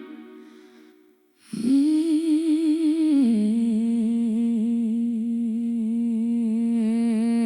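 A woman humming a long wavering note that steps down in pitch about three seconds in and is then held. It starts after the tail of a distorted electric guitar dies away into a moment of silence.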